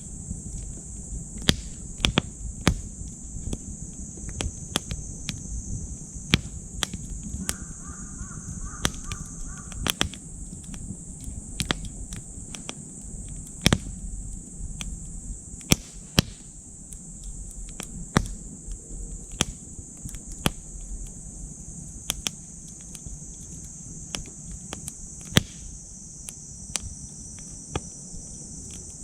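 Wood fire crackling in a titanium wood stove, with irregular sharp pops. A steady high insect chorus runs underneath.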